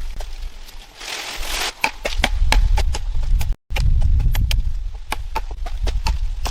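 Repeated sharp knocks and taps, a few a second and unevenly spaced, over a low rumble, with a brief rustling hiss about a second in.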